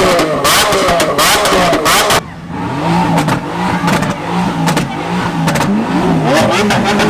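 Exotic car engine revved in quick repeated blips with sharp crackles. A little over two seconds in, the sound changes abruptly to an engine revving in a steady series of rising-and-falling blips, about one and a half a second.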